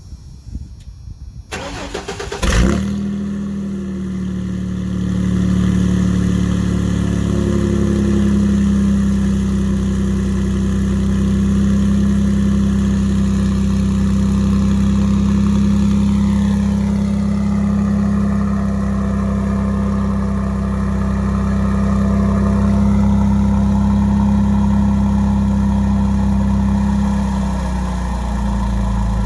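1995 Ford F-150 engine cranking briefly and catching about two seconds in, then running at a steady fast idle through a dual-inlet, single-outlet Super 10 style muffler: a cold start. The idle drops slightly near the end.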